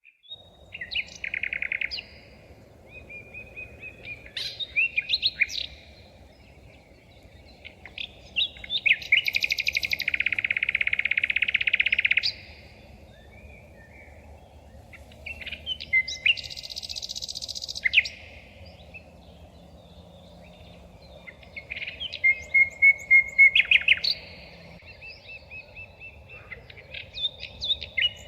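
Songbird singing in separate phrases a few seconds apart, several of them fast trills, the longest lasting about three seconds, over a faint steady background hiss.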